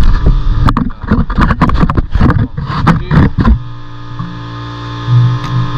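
A quick run of irregular knocks and clanks, like metal parts and tools being worked. About three and a half seconds in it gives way to a steady droning hum.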